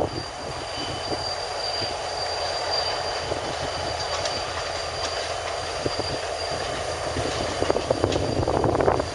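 Norfolk Southern diesel freight locomotive rolling past with a steady engine rumble. Its wheels click over the rail joints and give a thin steady high squeal. The sound grows louder near the end as the locomotive draws closest.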